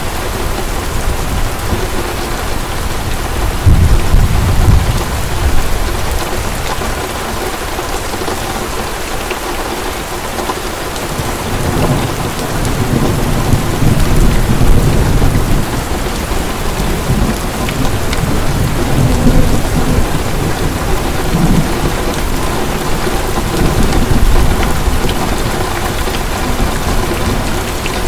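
Heavy rain falling steadily, with low rolls of thunder swelling and fading a few times.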